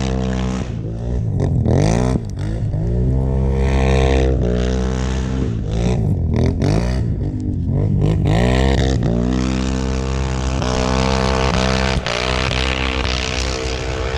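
Can-Am Outlander 1000 ATV's V-twin engine through an RJWC single aftermarket exhaust, revving up and falling back several times, then held at a steadier, higher speed over the last few seconds.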